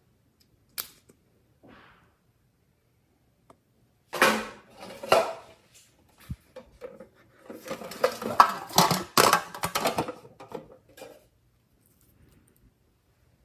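Hands working with slime, makeup and containers at close range: a single click about a second in, then irregular bursts of clattering, tapping and scraping from about four seconds in until near the end.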